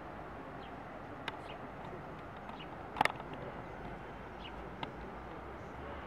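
Steady background hiss with scattered short, faint bird chirps. A brief sharp click about halfway through is the loudest sound, with two smaller clicks before and after it.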